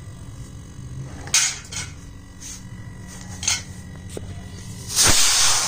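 Refrigerator compressor running with a low steady hum while compressed air and oil spurt out of a cut-open refrigerant pipe in short hisses, then a louder, longer hiss near the end. This is the system being purged of oil until only air blows through.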